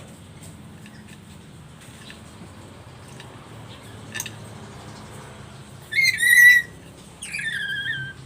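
Black-capped lory giving two loud calls near the end, the second sliding down in pitch. A single sharp click comes a couple of seconds before them.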